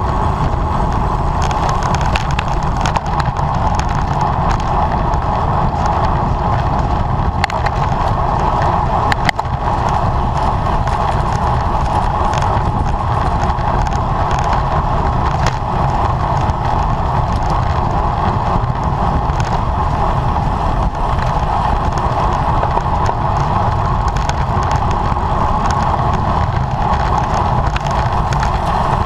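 Steady wind rush and road noise from a racing road bicycle at speed, with occasional faint clicks.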